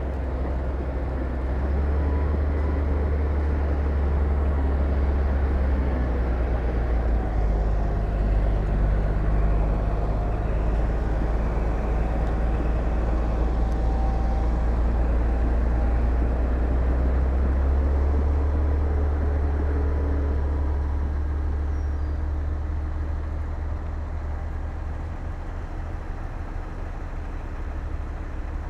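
Heavy diesel earthmoving machinery working, with a steady deep engine rumble that eases somewhat after about twenty seconds.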